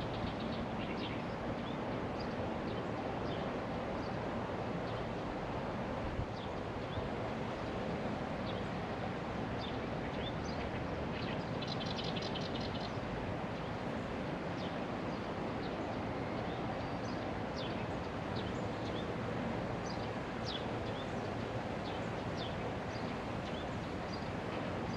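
Small birds calling outdoors: short high chirps repeated on and off, with a quick trill of repeated notes about twelve seconds in, over a steady background noise haze.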